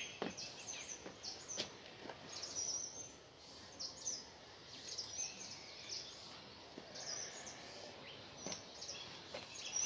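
Small birds chirping intermittently in the background, with a few faint clicks and knocks.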